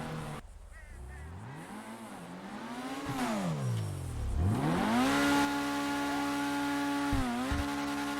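Car engine revving up and down several times, then holding a steady high pitch with a brief dip near the end.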